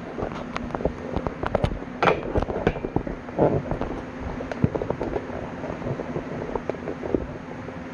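Lincoln SP180 MIG welder welding 1/8-inch steel: an irregular, continuous crackle of arc pops over a steady low hum.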